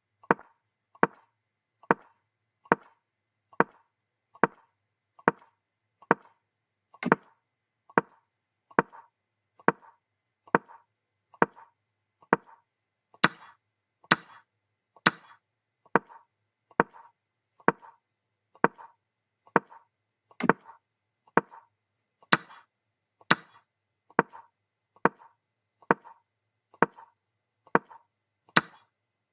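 Chess move sound effects, one short wooden click per move, evenly paced at about one every 0.9 seconds, with a few louder, sharper clicks among them.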